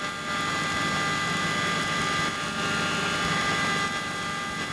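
Helicopter engine and rotor running steadily, with several steady high whining tones over an even rushing noise.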